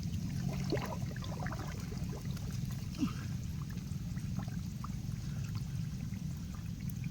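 Water trickling and lapping, with small scattered splashes, as someone wades waist-deep in a shallow river.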